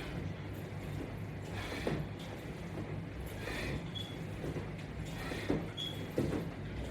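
Latch Bar resistance strap attachment creaking, with short squeaks, in a slow rhythm of about one creak every one and a half to two seconds as the sit-up repetitions are pulled, over a steady low hum.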